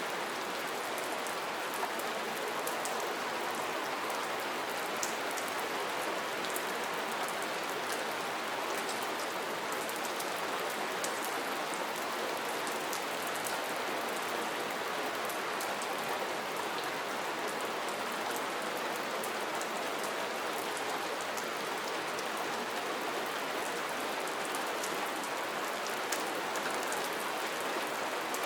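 Steady rain falling, a constant hiss with many small drops pattering.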